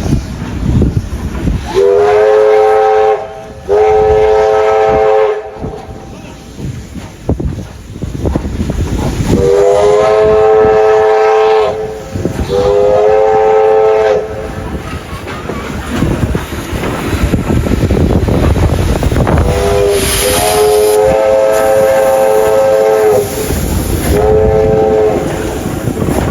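A locomotive's multi-note chime sounding a series of blasts, each one to three seconds long, in three groups of two or three. Wind noise on the microphone runs underneath.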